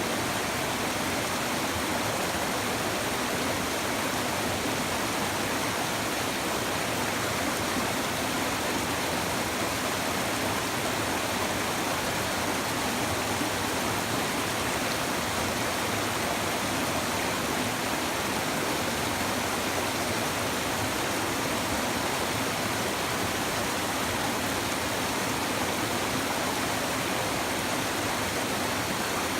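A shallow river babbling over stones, a steady, even rush of flowing water.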